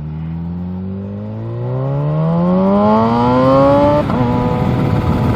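Kawasaki Z H2 motorcycle's supercharged inline-four engine accelerating, its note rising steadily for about four seconds, then changing abruptly to a rougher, steadier sound.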